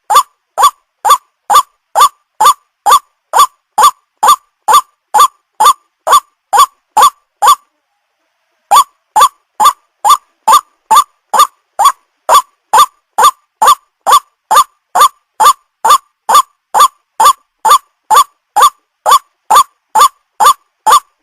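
White-breasted waterhen (ruak-ruak) calling: a fast, even string of short upward-bending notes, about three a second, which stops for about a second partway through and then resumes. It is the repeated call used as a lure for waterhens.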